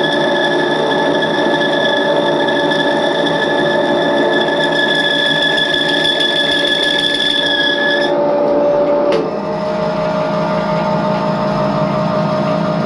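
Edgwick metal lathe running with a steady mechanical whine. Its sound changes about eight seconds in, the higher whine dropping away, and a single sharp click follows a second later.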